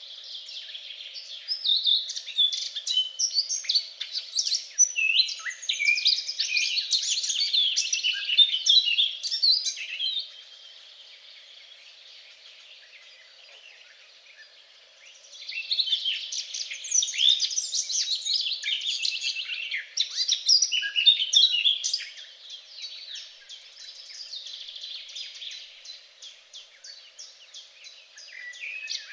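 Songbird singing in two long, varied bouts of rapid twittering notes, each about eight seconds, with a quieter stretch of faint chirps between them and rapid repeated notes near the end.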